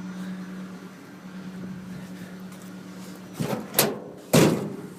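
A few sharp latch clicks, then a loud slam on a small pickup truck, over a steady low hum.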